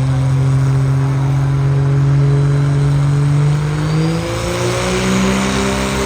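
Engine of a truck or tractor pulling machine running hard at a steady pitch, then revving higher about two-thirds of the way through and holding there.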